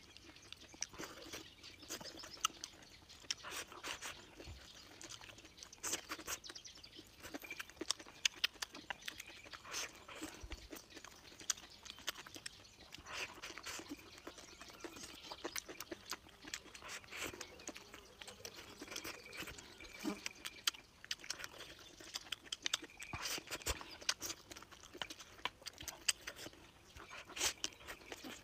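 Close-up eating sounds of a person chewing grilled vegetables with rice: wet chewing, crunching and lip smacking in many quick, irregular clicks.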